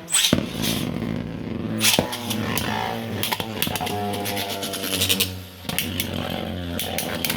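Two 3D-printed Beyblade tops launched into a plastic stadium, spinning with a steady hum and clacking against each other in sharp hits about 2 s in, 3.4 s in and again near 6 s.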